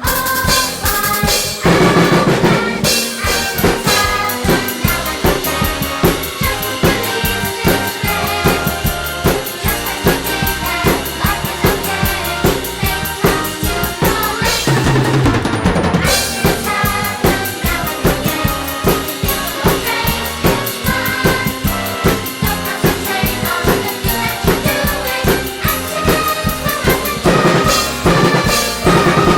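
Drum kit played with a steady beat along to a recorded instrumental song, the bass drum and snare prominent over the backing track.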